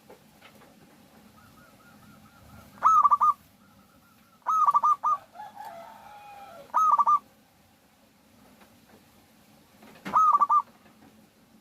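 Zebra doves cooing: four loud, short bursts of quick staccato coos. Fainter cooing comes in between them, including a lower, falling call near the middle.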